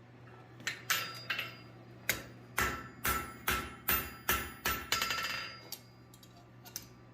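Hand hammer striking a forged steel piece on the anvil to straighten it, about a dozen ringing blows at a steady pace. The blows stop about six seconds in.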